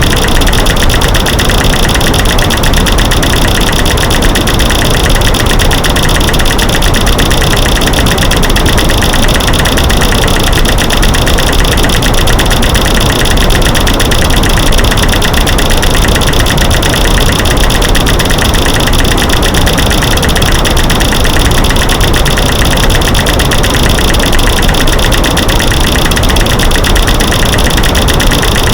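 Loud, unbroken, dense clicking and knocking mixed from light-switch clicks, snapping sticks and rocks knocked together, over a steady white-noise hiss.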